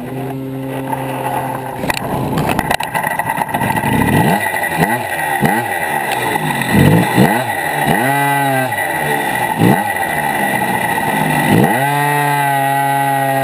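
Small motorcycle engine idling, then blipped repeatedly with quick revs that rise and fall. About twelve seconds in it revs up and holds a higher steady pitch as the bike pulls away.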